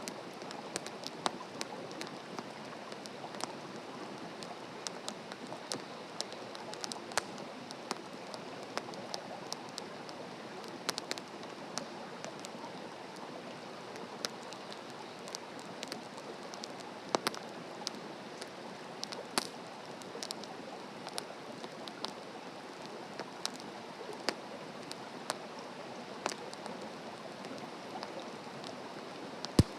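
Wood campfire burning on open ground: a steady hiss with frequent sharp crackles and pops, and one loud pop near the end.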